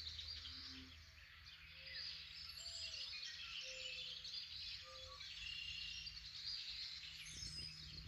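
Dawn chorus of many songbirds singing and chirping at once around a pond, which the material names as including red-winged blackbirds. A few short, low hooting notes are mixed in during the first half, over a steady low hum.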